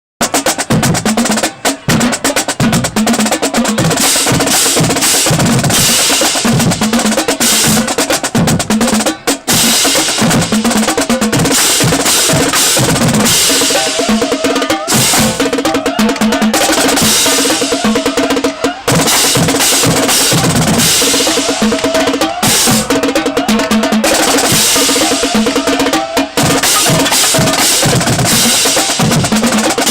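Marching band drumline playing loudly: rapid snare drum patterns and rolls over bass drums and tenor drums, with cymbals crashing over the top.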